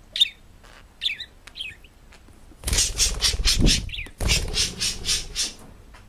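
Parrot giving a few short chirping calls, then a louder run of harsh, rapid pulses, about five a second, lasting around three seconds with a brief break in the middle.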